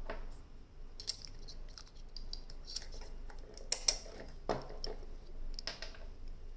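Irregular small clicks and light metallic knocks from the parts of an iKape V2 KM7 manual coffee grinder being handled, as the outer conical burr is turned on the centre shaft to reset the grind to position 1.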